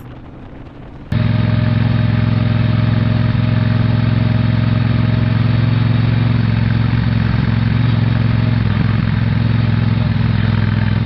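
Triumph Bonneville Speedmaster 1200 parallel-twin engine running steadily while riding, with no revving up or down. It cuts in suddenly about a second in.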